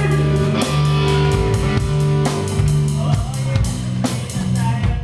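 Live rock band playing: a drum kit with quick, regular cymbal strikes over bass and guitar.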